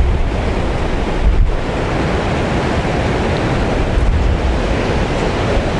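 Strong wind buffeting the microphone over the sound of sea surf, a dense steady rush with gusts swelling about a second and a half in and again about four seconds in.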